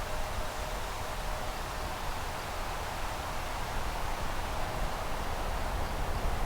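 Jet airliner engines heard at a distance as a steady rushing noise with a deep rumble, growing louder toward the end, with a faint steady whine at times.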